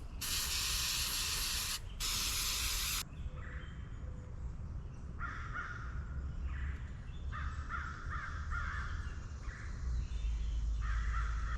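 Aerosol electrical cleaner sprayed in two hissing bursts, the first ending near two seconds in and the second lasting about a second, used to clean oil off the minivan's ignition coil packs. Crows caw several times in the background afterwards.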